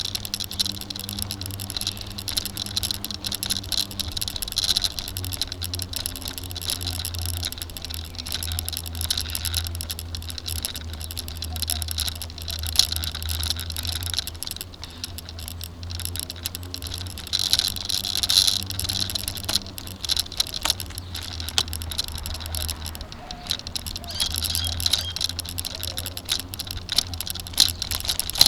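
Road noise of a bike ride: a steady low rumble with dense rattling and clicking throughout.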